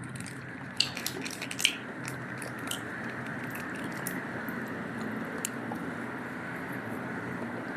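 A person biting and chewing grilled satay, a few crisp clicks in the first two seconds, over a steady background hum.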